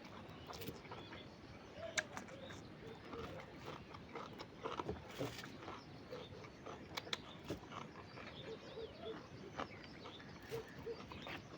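Close-up chewing and lip-smacking of a person eating fish curry with rice, with sharp mouth clicks scattered irregularly throughout.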